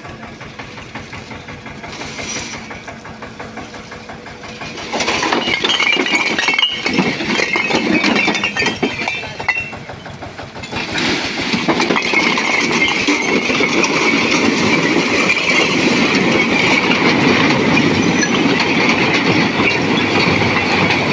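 Eicher 242 tractor's diesel engine running with a fast, even chug. It is quieter at first, picks up about five seconds in, eases briefly near the middle, then runs loud and steady under load.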